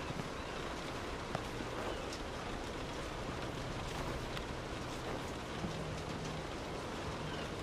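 Steady rain falling: a dense, even patter with scattered louder drops ticking through it.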